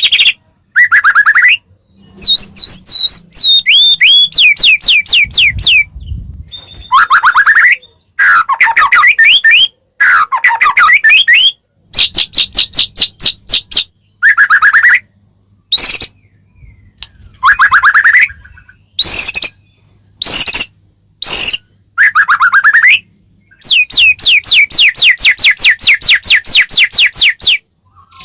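White-rumped shama (murai batu) singing: loud phrases of rapid, repeated sweeping notes and trills, each lasting a second or two, separated by short pauses.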